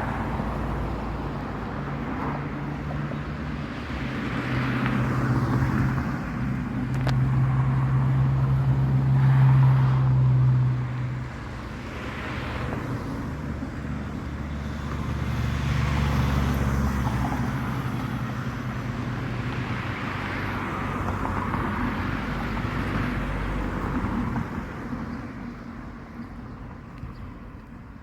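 Street traffic: motor vehicles running and passing by, with a low engine hum that grows louder around the middle and fades near the end.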